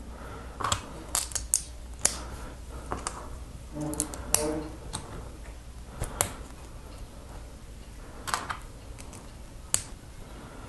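Plastic LEGO pieces clicking and clattering as they are picked through and snapped together, in scattered sharp clicks at irregular intervals.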